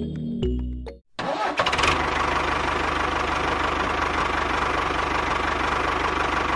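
Background music cuts off about a second in. Then a small engine starts up and runs steadily with a fast, even rhythm.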